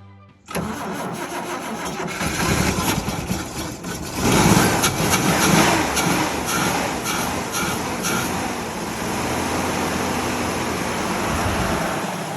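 Toyota Land Cruiser FJ45's engine starting up, running loudest a few seconds in, then settling into a steady idle.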